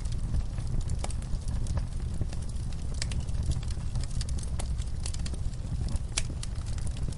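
Wood fire burning, with a steady low rumble and irregular sharp crackles and pops several times a second.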